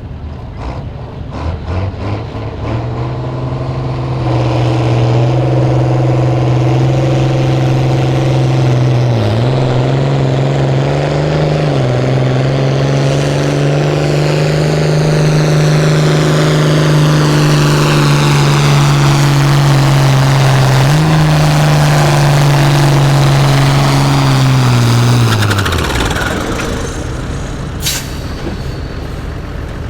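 Pulling tractor's engine at full throttle hauling the weighted sled. It climbs in the first few seconds and runs hard and steady, dips briefly twice under load about 9 and 12 seconds in, and rises in pitch about 21 seconds in. It then winds down and stops around 26 seconds, followed by a short sharp click.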